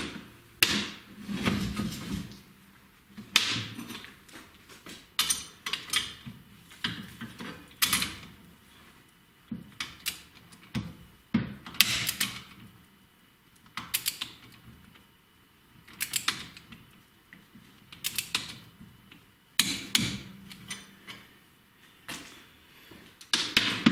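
Socket wrench being worked in short strokes on bolts, giving clusters of metallic ratchet clicks about every one and a half to two seconds.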